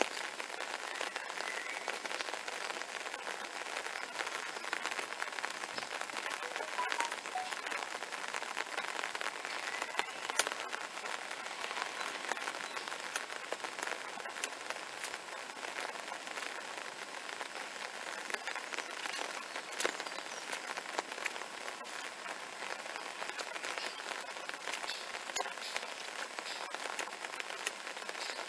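Steady rain falling, a dense patter of drops with a few sharper ticks now and then.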